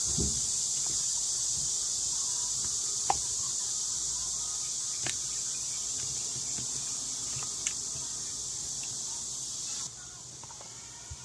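Slime being handled, giving a few small sharp pops and clicks about two seconds apart over a steady high hiss that drops away abruptly near the end.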